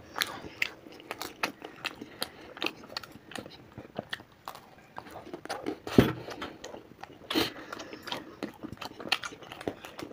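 Close-miked eating of samosas: chewing and biting, a run of small mouth clicks and crackles. One louder knock comes about six seconds in.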